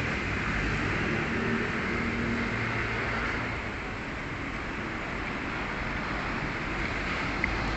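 Steady background noise like road traffic, with one short click near the end.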